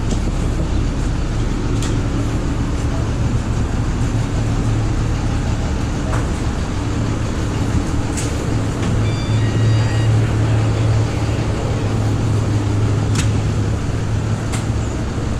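Steady, loud rumble of a vehicle in motion, with a few sharp clicks and a short run of high beeps a little over halfway through.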